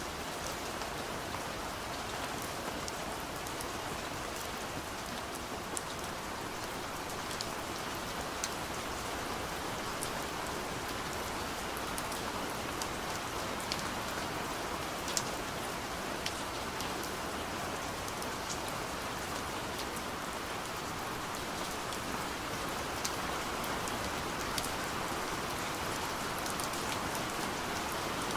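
Steady gentle rain falling on a window, a soft even hiss with scattered light drop ticks.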